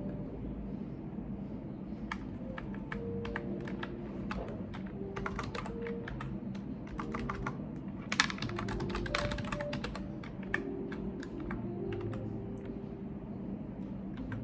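Typing on a computer keyboard: irregular key clicks starting about two seconds in, a quick run of keystrokes past the middle, then only a few scattered taps, over a steady low room hum.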